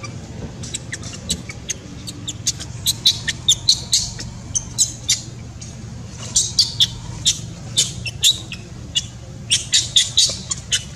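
Small birds chirping in quick, irregular bursts of short high-pitched notes, over a low steady hum.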